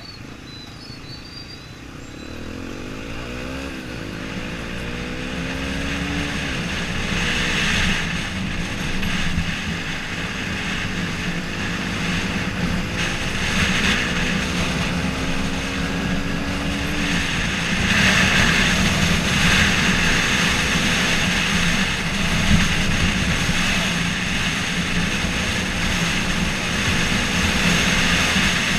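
Yamaha XTZ 125 single-cylinder four-stroke engine pulling away under throttle, its pitch rising and dropping back at several gear changes early on, then running fairly steadily at speed. Wind and road noise grow louder as it speeds up.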